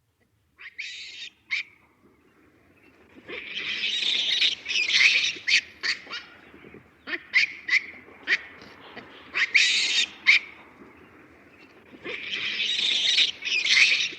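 Baboons calling: harsh, high-pitched shrieks come in several long stretches, with short sharp calls between them.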